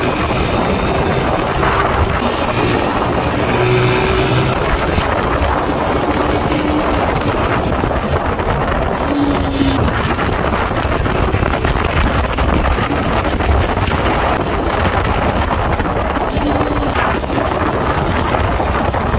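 Steady rush of wind over the microphone on a moving motorcycle, with the motorbike running underneath it.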